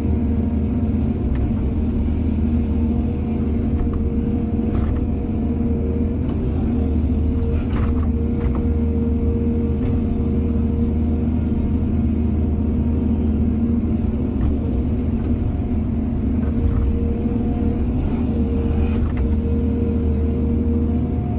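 Excavator's diesel engine running steadily at work, with a handful of short sharp knocks scattered through it.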